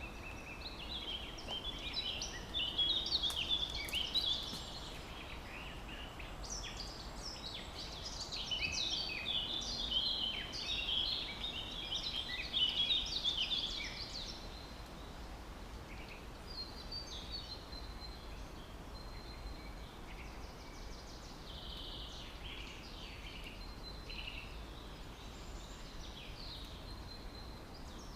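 Small birds chirping and twittering in a busy chorus of quick high notes over a steady background hiss, thick for the first half and thinning to scattered calls after about 14 seconds.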